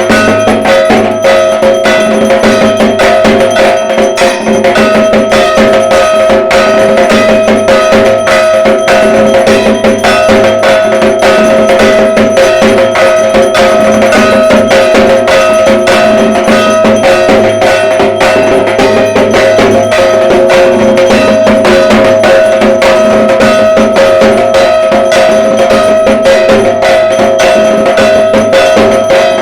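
Dhak, the large Bengali barrel drum, beaten with sticks in fast unbroken strokes, with a steady metallic ringing held under it throughout.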